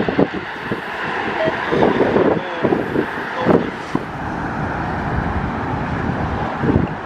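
Steady outdoor rumble of traffic and distant jet noise, with strong wind gusting and buffeting the microphone in irregular low thumps.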